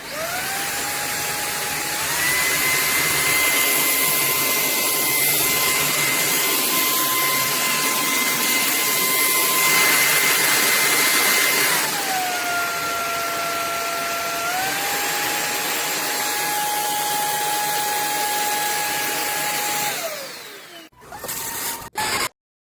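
SKIWEC cordless stick vacuum running, its motor whine over a rush of air. The pitch steps up about two seconds in, drops around twelve seconds, rises a little again, then winds down and stops near the end, followed by a couple of short knocks.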